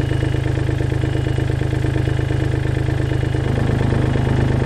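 Takeuchi TB135 mini excavator's diesel engine running steadily with an even low pulsing. About three and a half seconds in, its note changes and it gets slightly louder.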